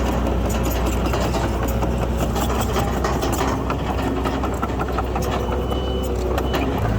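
Heavy diesel earthmoving machinery running steadily, with frequent light clanks and knocks over a constant low engine hum. The low engine note changes pitch just before the end.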